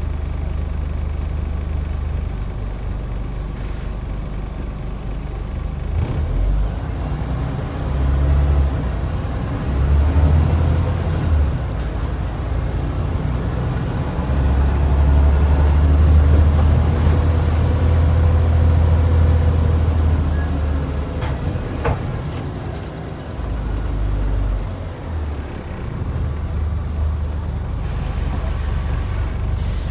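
Scania N94UD double-decker bus's diesel engine running under way, its low rumble swelling and easing several times as it pulls and backs off, loudest in the middle, with a faint whine rising and falling over it and a couple of short clicks.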